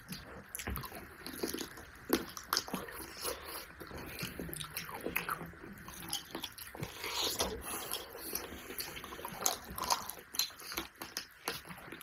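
Close-miked mukbang eating sounds: people biting and chewing food eaten by hand, heard as a rapid, irregular run of small mouth clicks and smacks.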